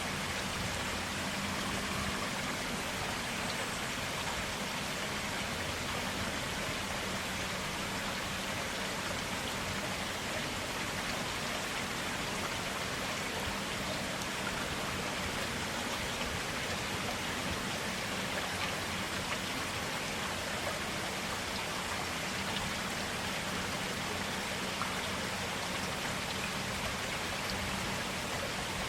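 Stream water flowing over rocks in a steady, even rush.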